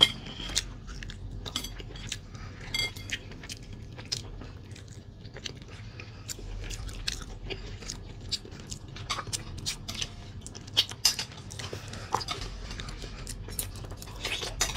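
Close-miked chewing and mouth sounds of someone eating meat and rice, with scattered light clicks of chopsticks against a bowl and plate.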